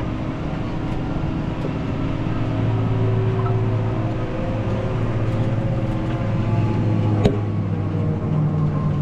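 Tractor engine running steadily, its pitch rising slightly partway through, with a single sharp click about seven seconds in.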